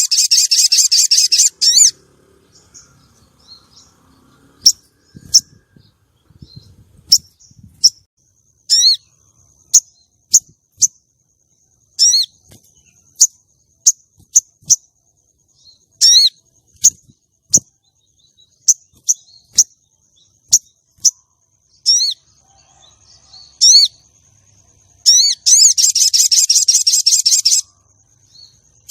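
Female sogon calls: a loud, rapid rattling trill at the start and again near the end, with many short, sharp single chirps spaced through the middle, used to lure and rouse a male sogon. A faint, thin, high steady tone runs beneath the middle chirps.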